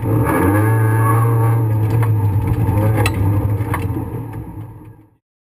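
Rally car engine running steadily, heard from inside the cabin, with a couple of short clicks about three seconds in; the sound fades out over the last second and stops.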